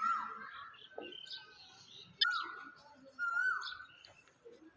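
Bird calling: three loud calls, each holding one pitch and then dropping sharply, with faint high chirps in between.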